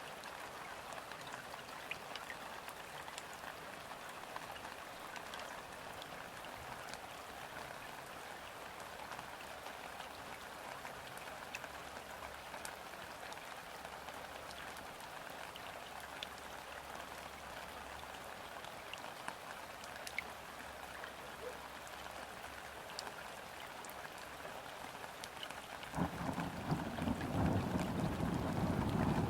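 Steady rain falling onto river water: an even hiss with scattered single drop ticks. Near the end a low rumble comes in suddenly and grows louder.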